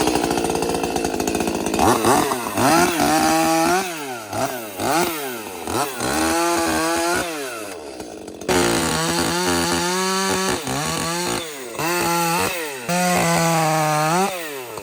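Ported Echo CS-310 30cc two-stroke chainsaw running and revved up and down again and again, with stretches held at full throttle.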